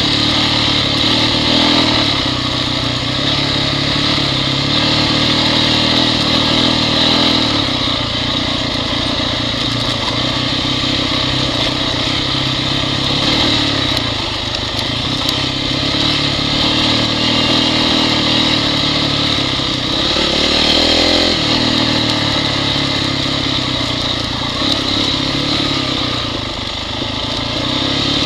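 Honda CRF dirt bike engine running loud under the rider's throttle, its pitch rising and falling in steps through the ride.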